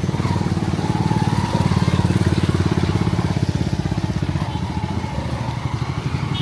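An engine running steadily close by, with a fast, even throb.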